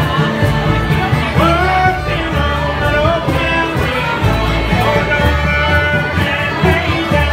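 A bluegrass band playing, with a singer's voice over plucked string instruments and a steady bass.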